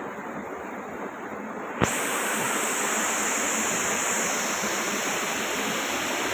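Waterfall rushing as steady, even water noise. About two seconds in there is a sharp click, after which the rush is louder and brighter.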